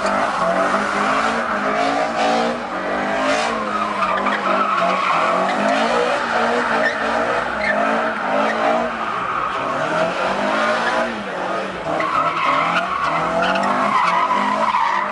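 A car doing a burnout or donuts: its tyres squeal steadily while the engine revs up and down.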